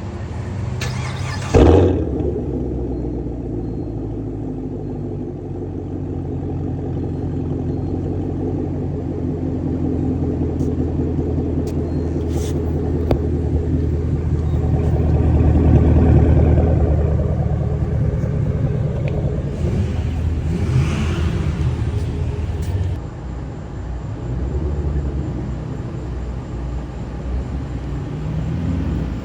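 Straight-piped 2017 Camaro SS's 6.2-litre V8 running while driving, heard from the cabin; the exhaust note builds to its loudest about halfway through, then eases off. A short loud knock sounds about a second and a half in.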